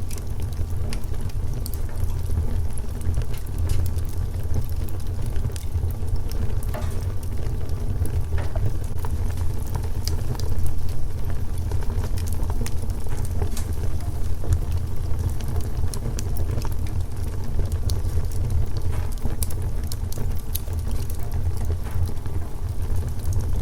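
Wood fire crackling: scattered small pops and snaps over a steady low rumble.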